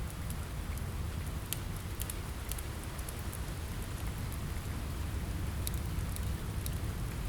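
Steady rain against a window with a low rumble, mixed with a wood fire crackling: scattered sharp pops and snaps throughout.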